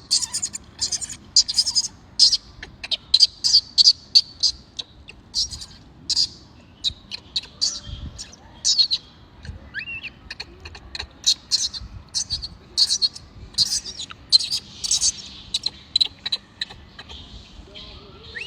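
Small birds chirping: quick, high-pitched chirps several times a second, with one short rising call about halfway through.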